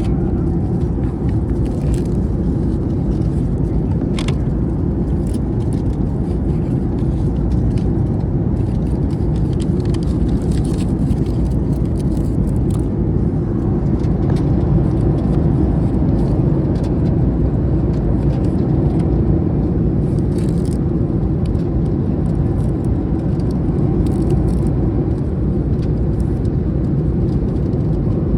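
Steady low rumble of airliner cabin noise inside a Boeing 737 MAX 8, with faint scattered ticks and rustles over it.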